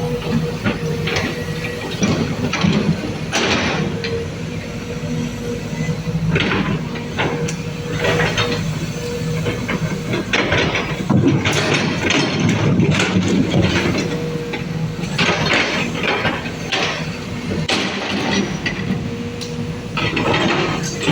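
Sumitomo SH210 hydraulic excavator working: its diesel engine runs steadily under load, overlaid by repeated short bursts of noise and knocks from the machine's moving parts.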